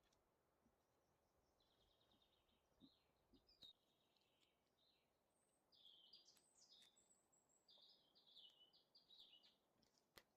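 Faint songbird singing: short runs of rapid high notes and quick up-and-down phrases, growing fuller from about six seconds in, over a quiet forest background.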